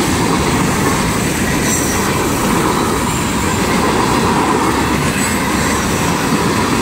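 CSX freight train rolling past at speed, a steady, unbroken run of tank cars, covered hoppers and boxcars going by on the rails.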